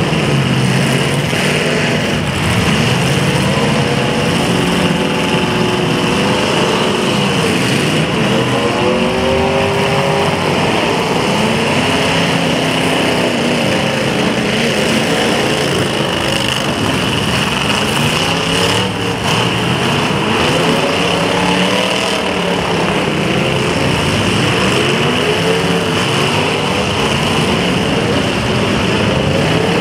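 Several demolition derby cars' engines revving up and down at once, loud and continuous, their pitches rising and falling over one another.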